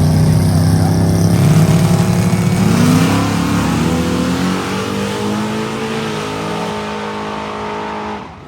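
Drag-racing car engine at full throttle, accelerating hard. The note climbs about three seconds in, then slowly grows fainter as the car pulls away, and cuts off abruptly near the end.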